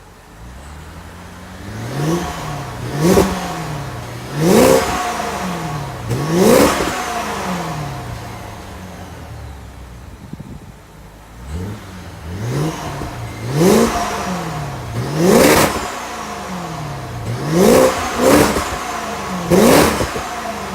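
BMW Alpina B5 (E60) supercharged V8 on its stock exhaust, revved from idle in a series of short throttle blips. Each blip rises quickly and falls back. There are about four in the first seven seconds, then steady idling, then about six more from the middle on.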